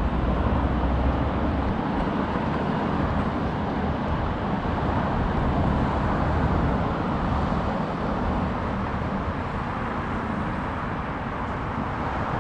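Expo Line light-rail train running, a steady rumble of wheels and motors, deepest in the first couple of seconds.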